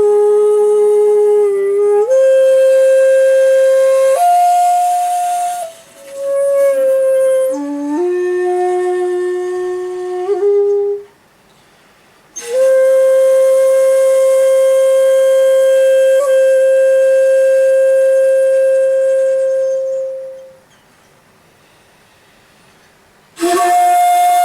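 Solo shakuhachi (bamboo end-blown flute) playing in komuso style: short phrases of breathy notes that step between pitches and bend, separated by pauses. Midway comes one long held note of about eight seconds that fades out, and after a silence a new phrase begins near the end.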